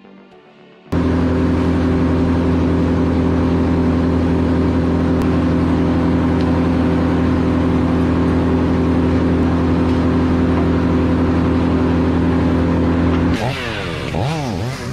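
Diesel engine of a Cat D4D crawler tractor running hard at a steady speed, cutting in abruptly about a second in. Near the end it drops in level and its pitch swings up and down several times.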